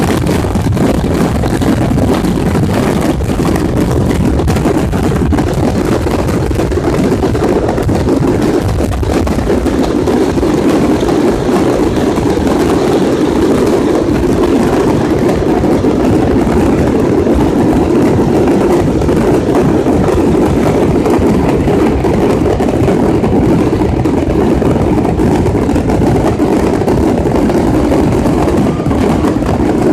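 Wind buffeting the microphone: a steady, loud, low rumble with no distinct bangs standing out.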